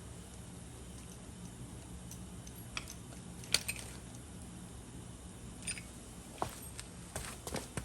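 Honda Live Dio (AF34) 50cc two-stroke scooter engine running at a steady low idle, with scattered sharp ticks over it; this is the engine noise the bike is being recorded for as abnormal.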